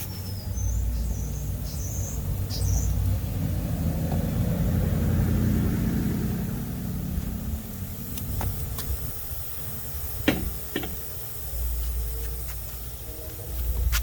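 A vehicle passing by, its sound swelling and fading over a few seconds above a steady low rumble, with a few sharp clicks in the second half.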